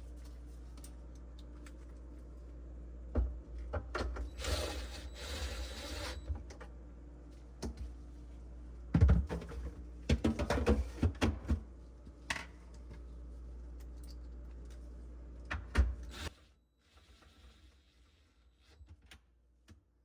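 Hard objects being handled: clusters of clicks, taps and clattering, loudest about nine seconds in, over a steady low hum that stops about 16 seconds in.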